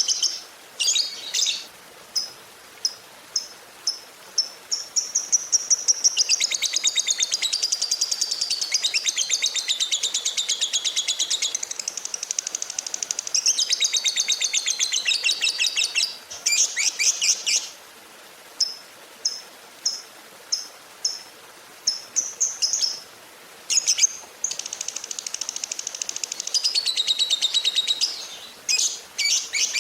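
Lovebird calling with high-pitched chirps. Single short notes come about two a second, broken by long rapid chattering trills that run for several seconds at a time.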